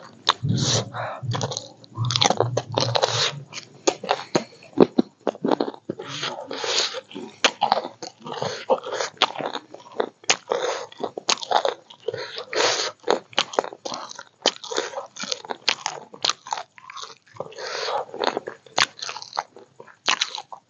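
A person chewing and biting food close to the microphone, with many crisp crunches in quick, irregular succession.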